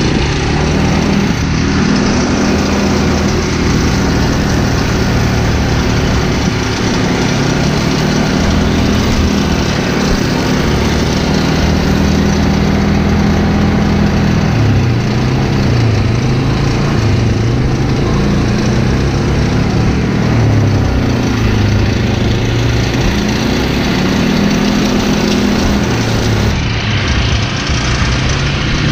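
Pull-behind brush mower's engine running steadily while mowing grass, its speed dipping and recovering several times in the second half as it takes on load.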